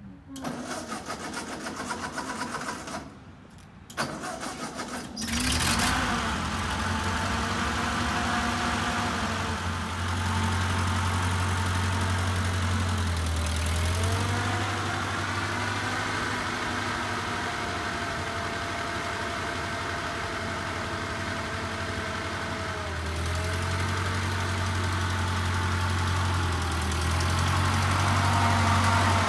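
Vehicle engine cranked by its starter twice, catching on the second try about five seconds in, then running at idle, its speed shifting up and down a few times.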